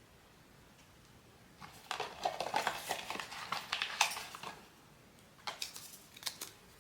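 Blind-box packaging being handled: crackling and clicking for about three seconds, then a shorter burst of crinkling a second later.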